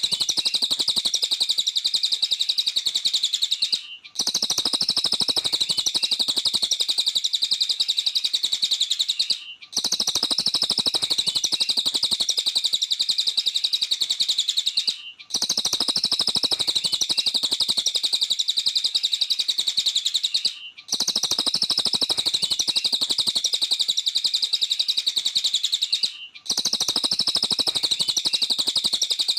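Cililin songbird singing busily, a rapid stream of high chirping notes. The song comes in stretches of about five and a half seconds, each broken by a short gap, as a looped recording does.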